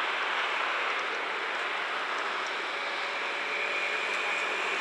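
Container freight train wagons rolling on the rails as the tail of the train passes, a steady noise of wheels on track.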